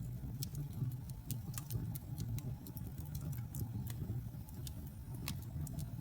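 Wood fire burning in a fireplace: a low, steady rumble of flames with frequent sharp, irregular crackles and pops from the burning logs.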